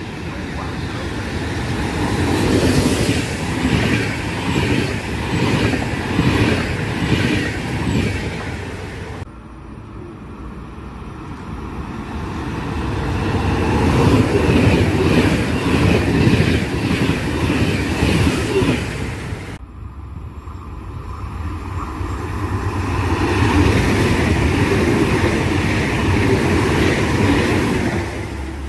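Trains passing through the station on the Milan–Venice line, three passes in a row. Each builds up loud with rhythmic wheel clatter over the rails and is cut off abruptly, about a third and two thirds of the way in.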